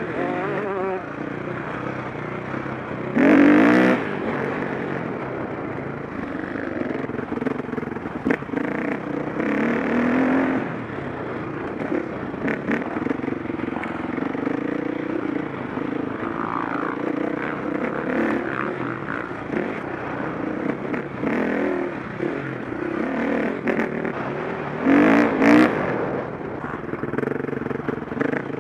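KTM 525 SX's four-stroke single-cylinder engine running under changing throttle on a motocross track, with loud bursts of hard throttle about three seconds in and again near the end.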